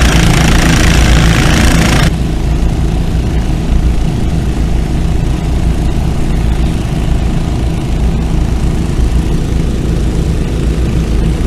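Small gasoline-engine water pumps running steadily, filling the dam through hoses. A loud hiss over the engine hum cuts off abruptly about two seconds in, leaving the engines' low, even hum.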